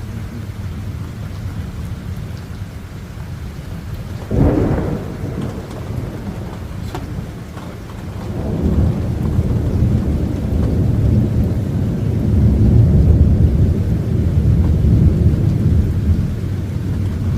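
Thunder: a sudden sharp crack about four seconds in, then from about eight seconds a long, low rolling rumble that builds and carries on, over a steady background of storm noise.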